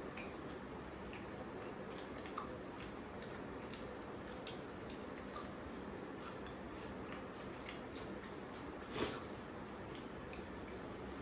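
People eating at a table: soft chewing and many small clicks of food and utensils, with one louder sharp clatter about nine seconds in.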